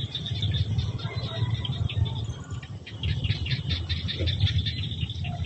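Wild birds chirping in quick repeated high notes, over a steady low rumble.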